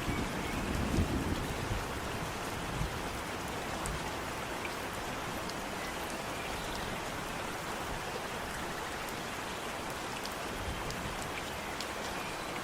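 Steady rain falling, with scattered drops ticking on a surface. A low thunder rumble dies away in the first couple of seconds.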